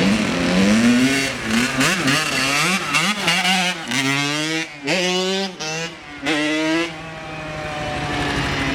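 Dirt bike engine revving in a run of throttle blips, its pitch climbing and dropping over and over for about seven seconds. It then settles into a steadier, quieter running sound.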